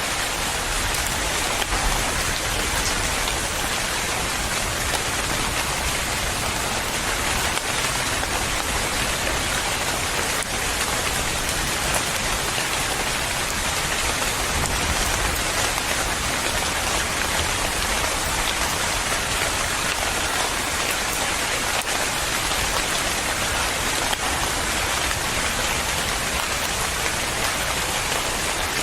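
Steady rain falling, an even hiss of drops on surfaces with a faint low rumble underneath.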